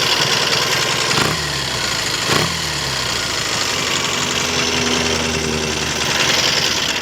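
Triumph TR6 650 cc parallel-twin engine running hot just after a restart, with a freshly rebuilt top end (new pistons and rings) and a 108 needle jet. It is blipped twice, the revs falling back each time, then settles to a steady idle and is switched off at the very end.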